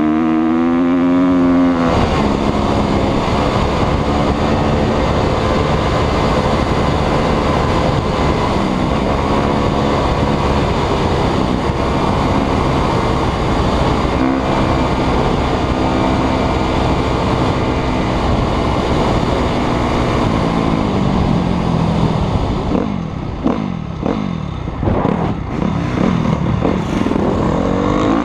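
Motocross motorcycle engine running under load, its revs rising and falling, with a run of quick rev changes near the end as the throttle is worked.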